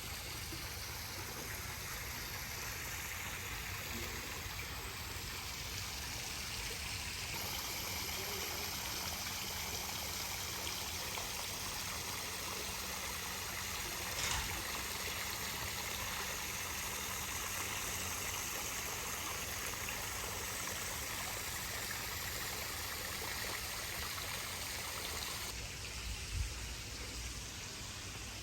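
Steady rushing of flowing water, with a single click about halfway through and a brief low thump near the end.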